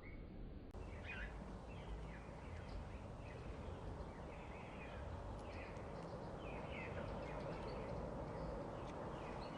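Small birds chirping repeatedly: short, downward-slurred chirps, one or two a second, over a steady low background rumble.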